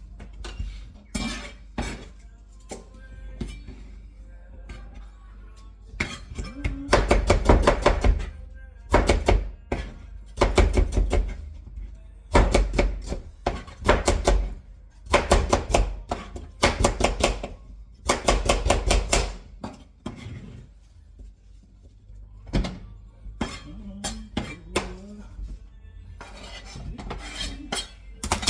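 Kitchen clatter of pots, dishes and utensils, with bursts of about a second of rapid, even knocking in the middle stretch.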